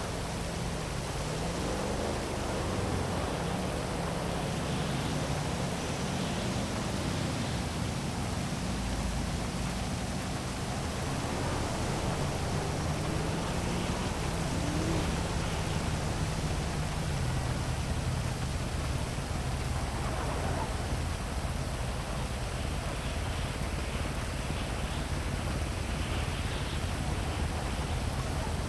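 Steady heavy rain falling over a city, with a low hum of traffic engines beneath it that slowly rises and falls in pitch.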